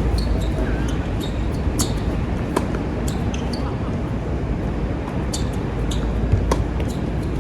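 Tennis balls being struck by rackets and bouncing on an outdoor hard court, with sharp hits a few seconds apart and lighter ticks between them. Strong wind buffets the microphone underneath as a steady low rumble.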